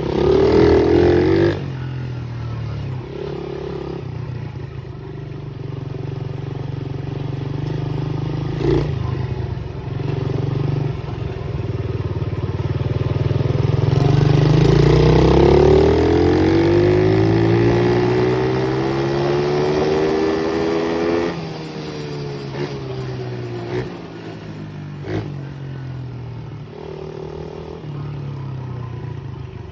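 Pit bike engine running under a rider. It is blipped sharply right at the start, then climbs in a long rising rev for about seven seconds before dropping back. A couple of sharp knocks are heard along the way.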